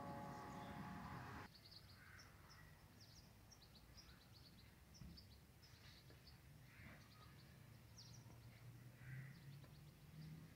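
Steady held tones of background music end about a second and a half in, leaving near silence with faint birds chirping in quick, short high notes.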